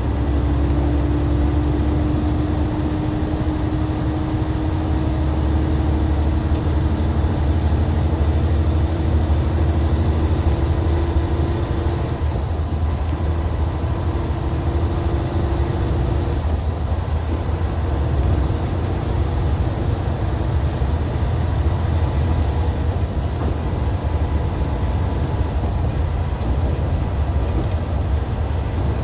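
Hyundai D6CC Powertec 380 six-cylinder diesel engine of a Universe Comfort coach running, with a steady low rumble. A faint tone rises slowly over the first half and fades out about sixteen seconds in.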